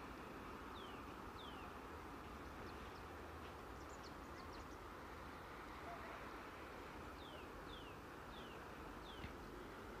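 Faint outdoor ambience with a steady hiss, and a small bird giving short high calls that drop in pitch: two about a second in, then a run of four or five near the end. A single faint click comes just before the end.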